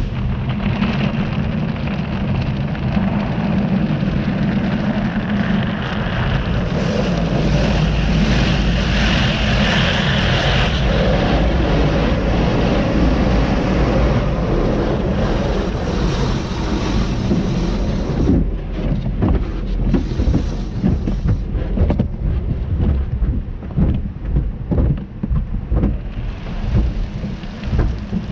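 Car wash tunnel machinery and water spray rushing loudly and steadily. About two-thirds of the way in, this turns into uneven, heavy thumping and surging.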